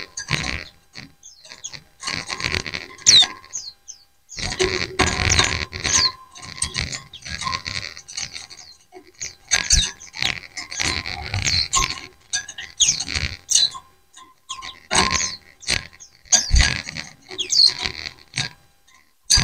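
A group of white-eyes (pleci) chirping back and forth, with quick high chirps packed into dense bursts of a second or two, separated by short pauses.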